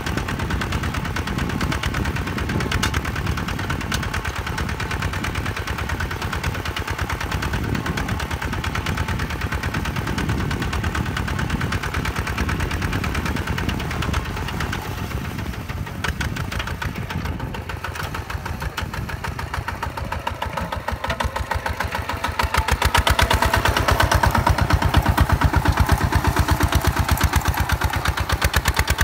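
Diesel engine of a Hinota HG Gold 155 DI paddy-field tractor running with a rapid, even stream of firing pulses. It gets louder about 22 seconds in.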